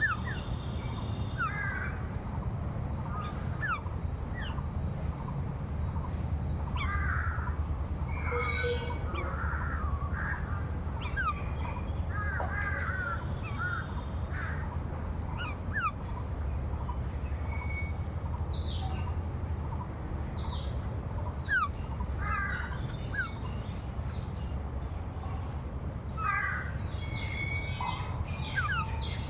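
Birds calling outdoors: many short chirps and whistled calls scattered throughout, some in quick clusters, over a steady low rumble and a steady high hiss.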